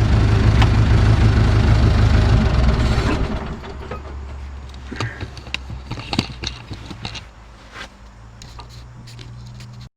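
Diesel engine of a JCB backhoe idling, then shut off about three seconds in and dying away. Scattered clicks and knocks follow over a faint low hum.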